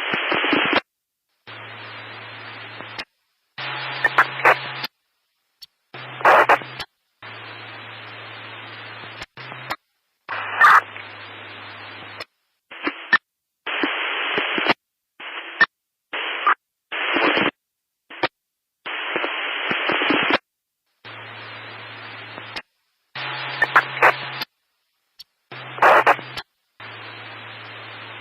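Static hiss that cuts in and out in abrupt bursts of about half a second to two seconds, with dead silence between them. Some bursts carry a low hum and sharp crackles.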